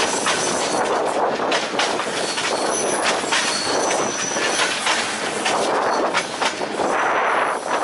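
Passenger train running along the line, heard from an open carriage window: a steady rattle of wheels and coach with irregular clanks and knocks, and a few brief high squeals from the wheels.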